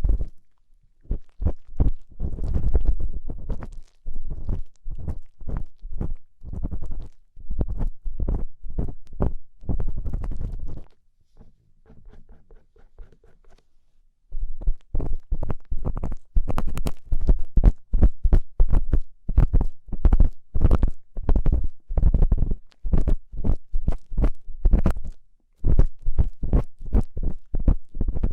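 Ear-cleaning tool scraping and rubbing inside the ear of a binaural ASMR microphone, in quick close strokes heavy in the bass. The strokes stop for about three seconds around the middle, then resume faster and denser.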